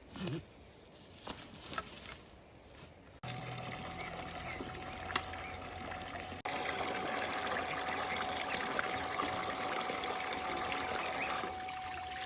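Running, trickling water, starting abruptly about three seconds in after a few faint ticks, and louder after a sudden cut about halfway through.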